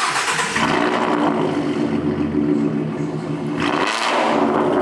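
Ford Mustang 3.7-litre V6 running with its catalytic converters removed. It rises sharply in revs at the outset and settles into a steady idle, then rises briefly again just under four seconds in.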